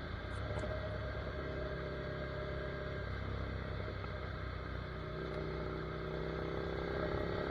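Ducati Monster 797's air-cooled L-twin engine idling steadily.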